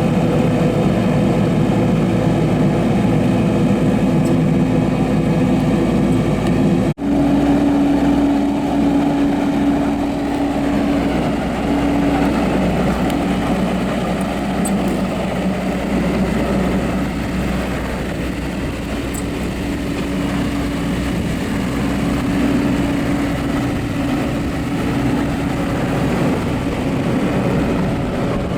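Diesel engine of a Vermeer Navigator D36x50 Series II horizontal directional drill running steadily, with a steady hum; the sound drops out for an instant about seven seconds in and then carries on unchanged.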